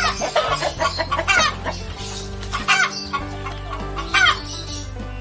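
Domestic hens clucking: a quick run of short calls that fall in pitch, then single calls every second or so. A background music track with steady held notes plays underneath.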